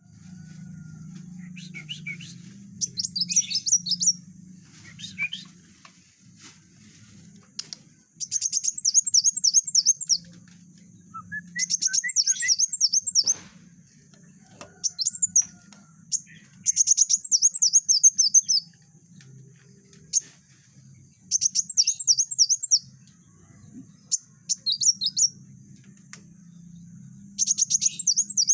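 Kolibri wulung sunbird singing in rapid bursts of fast, high, tightly packed chirping notes, a burst every few seconds. A faint low hum runs underneath.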